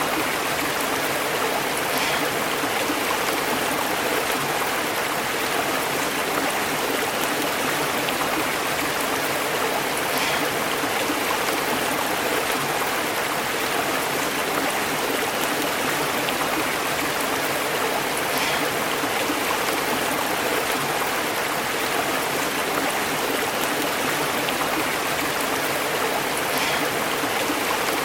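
A stream burbling steadily as it flows over rocks, an even rush of water.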